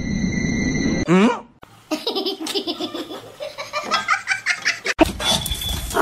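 A person laughing, in a run of short repeated bursts.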